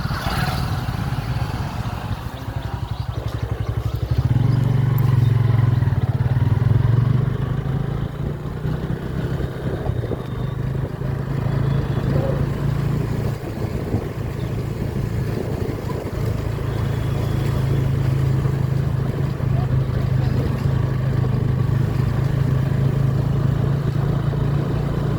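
Motorcycle engine running steadily while riding. It picks up louder about four seconds in and eases back a few seconds later.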